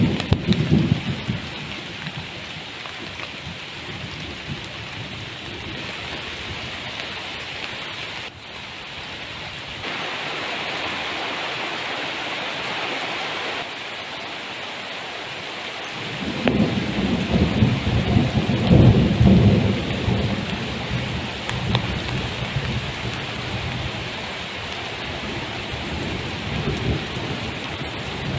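Heavy rain falling steadily, with low rolling rumbles of thunder: a short one at the start and a longer, louder one from about halfway through.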